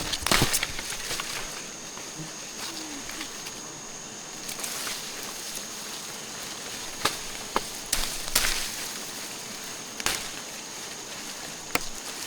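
A steady, high-pitched insect drone, with a few sharp clicks and knocks and a short rustle scattered through it.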